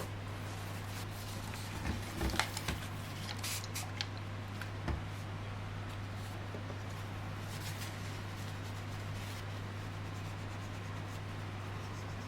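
A few light clicks and rubbing sounds from small objects being handled by hand, clustered about two to five seconds in, over a steady low hum.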